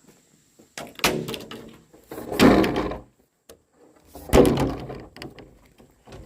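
Three loud knocks, each trailing off in a short clatter, about a second and a half to two seconds apart.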